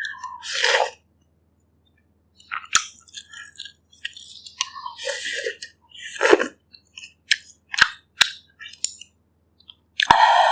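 Close-miked eating of bak kut teh pork ribs: chewing and wet mouth noises in short irregular bursts, with sharp clicks, and a pause of about a second and a half near the start.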